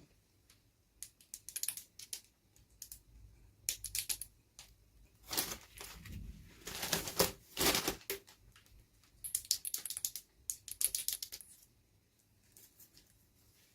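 Plastic toy packaging and small plastic doll pieces being handled: scattered clusters of light clicks and taps, with a louder stretch of crinkling and rustling in the middle.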